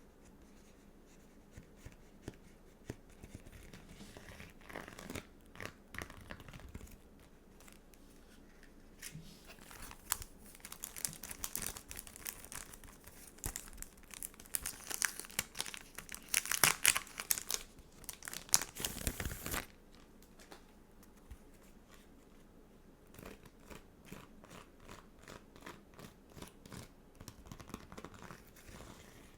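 Close-up crinkling, rustling and tearing of stickers, sticker sheets and their plastic packaging being handled, with small clicks and taps. The handling gets dense and loudest from about a third of the way in, stops sharply about two thirds in, and gives way to a run of quick light taps near the end.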